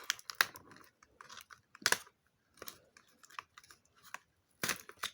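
Cardboard advent calendar window being pried and torn open by hand: scattered crackles and clicks, the sharpest about two seconds in and again near the end.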